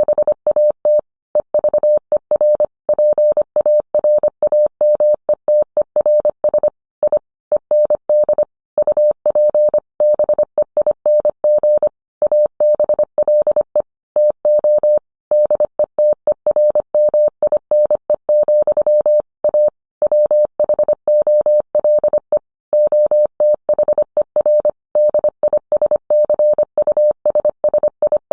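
Morse code sent as a single steady audio tone of about 600 Hz, keyed on and off in quick dots and dashes with short gaps between characters and words.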